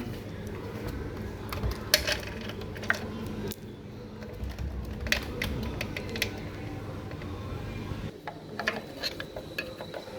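Hand tools clicking and clinking against the metal fittings of an electric water heater as it is taken apart, in scattered sharp knocks. A steady low background hum stops about eight seconds in.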